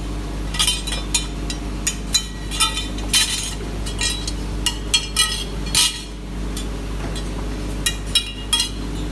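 Metal parts clinking and clanking against each other in irregular strikes, each with a short metallic ring, over a steady machine hum.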